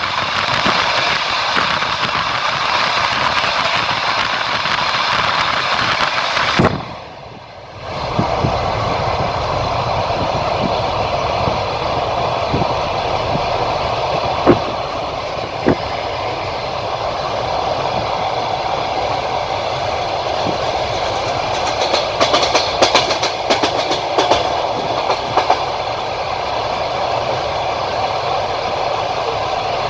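Train running along the line: a steady rolling rumble with sharp wheel clicks over rail joints, two single knocks midway and a run of clicks later on. The noise briefly drops away about seven seconds in.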